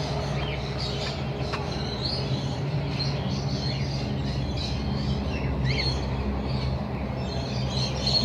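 A flock of birds chirping, with many short high chirps and a few brief rising calls scattered throughout, over a steady low hum.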